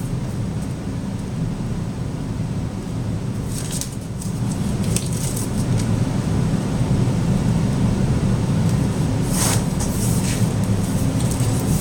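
A steady low rumble throughout, with a few brief rustles, the clearest about nine and a half seconds in.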